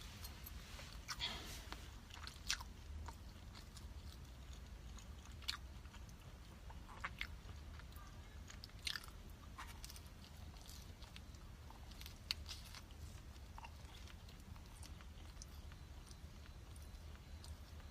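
A person chewing and biting food, with short crisp crunches and crackles at irregular moments over a steady low hum.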